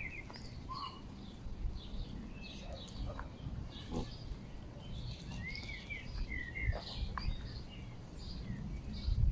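Birds calling: many short, high chirps and peeps, some in quick clusters, over a low steady outdoor rumble.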